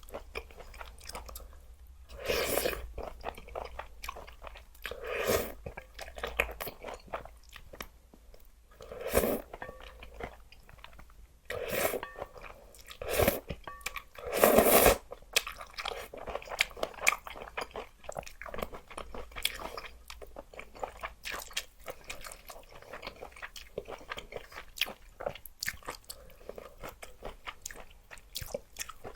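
Close-miked eating of spicy luosifen rice noodles: about six short, loud slurps or bites in the first half, then steady open-mouthed chewing with many small wet clicks and smacks.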